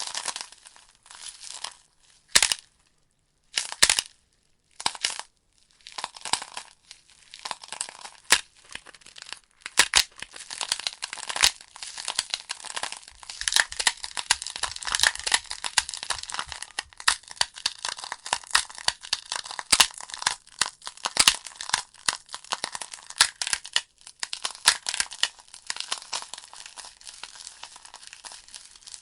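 Firewood logs burning in a fireplace, crackling and popping in dense, irregular sharp snaps. Twice in the first six seconds it drops away almost to nothing, then the crackle thickens and keeps up.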